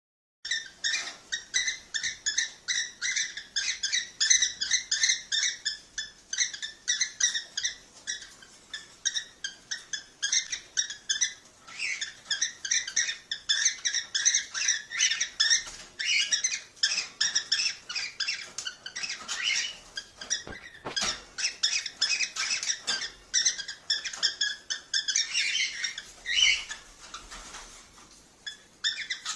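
Cockatiels chirping and chattering in a rapid, continuous run of short high-pitched calls, several a second, starting about half a second in. This is the kind of call used as a mating-stimulation sound for pet cockatiels.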